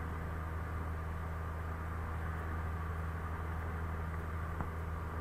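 Cessna 172's engine and propeller in cruise, a steady low drone with an even wash of airflow noise, heard inside the cabin.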